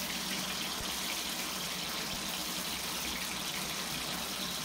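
Peeled hard-boiled eggs sizzling steadily in hot oil in an aluminium kadai.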